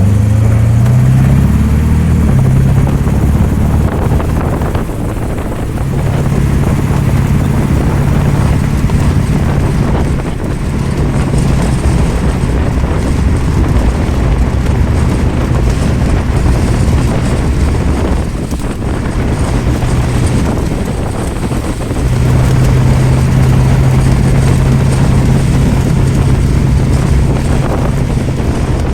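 A 1932 Ford Phaeton hot rod with a warmed-over Chevy truck engine, shorty tubular exhaust manifolds and an Edelbrock intake, being driven. The engine note rises as it accelerates at the start, then holds steady while cruising under road and wind noise, and gets louder again about 22 seconds in.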